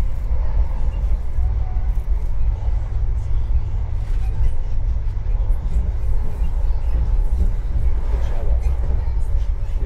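Steady low rumble of an InterCity 125 high-speed train's Mark 3 passenger coach running at speed, heard inside the carriage: wheels on the rails and the coach's running gear.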